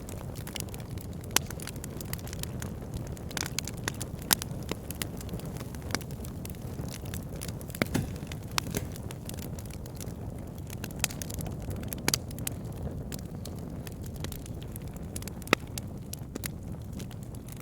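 Wood fire burning in a fireplace, with a steady low rush under frequent irregular crackles and sharp pops.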